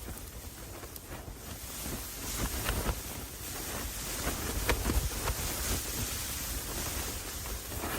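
Wind blowing and gusting, swelling about two seconds in, with a few light knocks.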